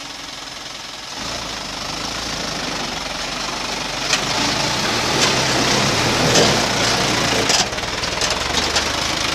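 Small dump truck's engine running and pulling harder, louder from about a second in as it reverses, with several sharp clanks and rattles in the second half.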